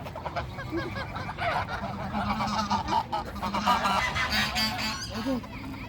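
A flock of birds calling over one another, many short calls at once, growing denser and louder about a second and a half in.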